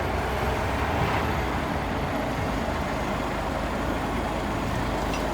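Cummins 350 diesel engine of a 1980 International crane truck running steadily.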